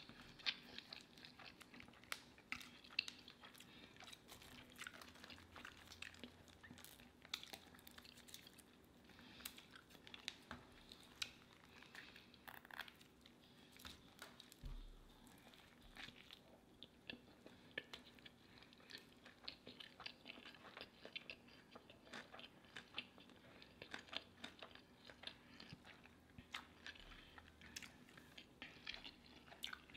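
Faint chewing and biting into a burger: a steady run of small mouth clicks, with no words.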